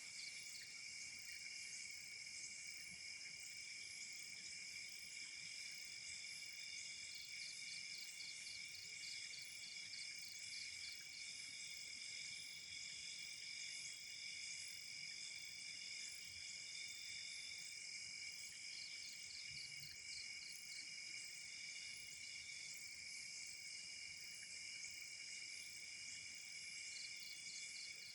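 Night chorus of crickets and other insects: several steady high-pitched trills run throughout, with a fast pulsing insect call coming in for a few seconds at a time, about a third of the way in, two thirds in and again near the end.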